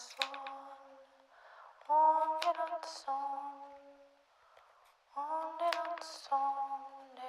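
A woman singing wordless held notes in slow phrases, stepping between a few pitches, with a short hissy sound between phrases and a quieter pause midway.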